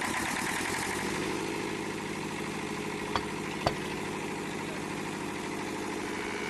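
Diesel generator engine idling steadily, with two short sharp clicks a little past three seconds in.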